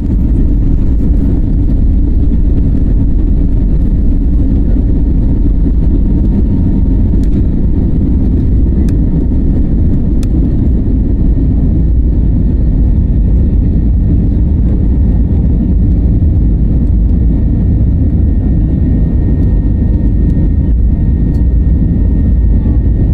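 Airbus A320neo airliner during takeoff: a loud, steady low rumble of the engines and airframe, with a faint high whine joining near the end.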